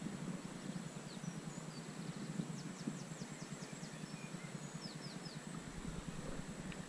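Faint birdsong over a steady low outdoor rumble: a quick run of high descending chirps about two and a half seconds in, then three more a little later.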